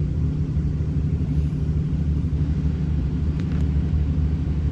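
Steady low rumble of running machinery in the background, with a faint click or two about three and a half seconds in.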